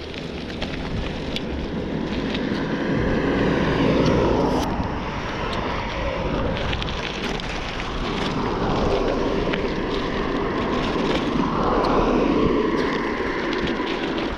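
Road traffic, several vehicles swelling and fading as they pass, with wind noise on the microphone.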